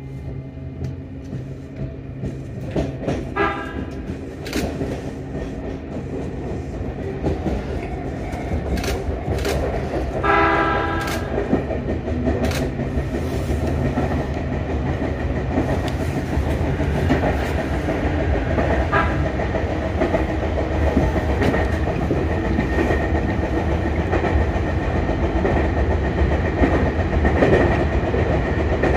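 Sotetsu Line electric train pulling away and gathering speed, its running and wheel clatter on the rails growing steadily louder. Short horn-like tones sound about 3 and 10 seconds in.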